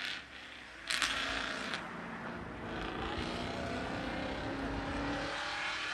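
A car engine running with a rush of noise, a sudden loud burst about a second in, then a steady drone.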